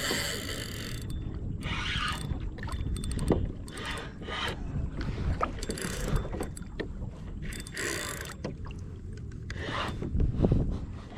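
Wind buffeting the microphone on a kayak, with several short splashes of water and a brief run of clicking from a fishing reel about three seconds in, while a hooked redfish is being played.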